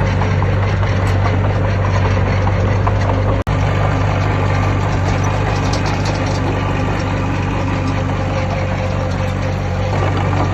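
Heavy diesel engine of earthmoving machinery running steadily with a deep drone, cut by a momentary gap about three and a half seconds in.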